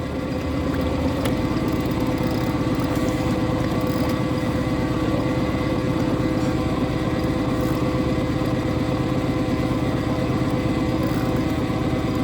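Boat engine running steadily at low revs, a constant even hum.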